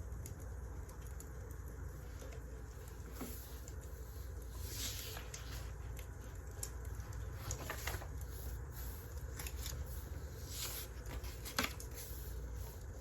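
Wood fire crackling, with irregular snaps and pops over a steady low rumble; the sharpest snap comes near the end.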